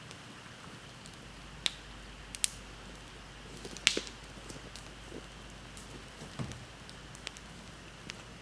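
Wood bonfire crackling: a few sharp pops of burning wood, the loudest about four seconds in, over a low steady hiss.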